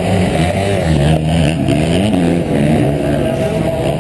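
Honda CR125 two-stroke single-cylinder motocross engine revving, its pitch rising and falling several times as the throttle is opened and closed.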